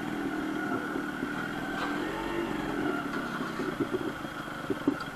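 Modified Yamaha RX100 two-stroke single-cylinder motorcycle engine running steadily through its aftermarket exhaust.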